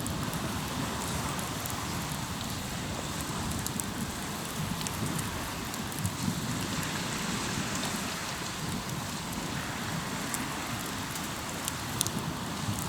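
Hardwood campfire crackling, with scattered sharp pops over a steady wash of waves breaking on the shore.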